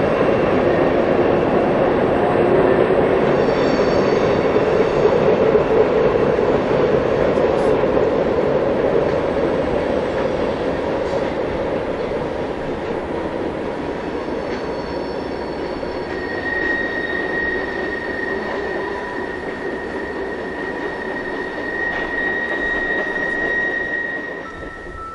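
Freight train cars rolling past with a steady rumble of wheels on rail. A high, steady wheel squeal rings out from about two-thirds of the way in.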